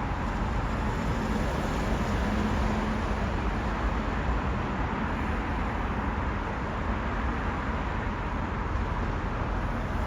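Steady low rumble of railway-station background noise with no distinct events. A faint steady hum comes in about a second in and fades a couple of seconds later.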